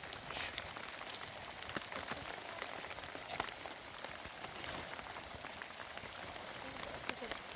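Rain falling steadily, with many separate drops tapping close by.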